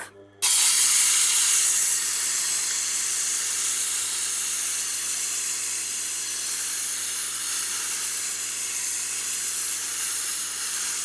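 A knife blade being ground on a coarse 80-grit wheel of a Tormek sharpener: a steady, high hiss of steel against the abrasive that starts abruptly about half a second in, over the low hum of the machine's motor.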